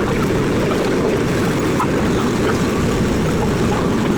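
Vintage R11 subway train running, heard from inside the car: a steady low rumble of wheels and motors on the track.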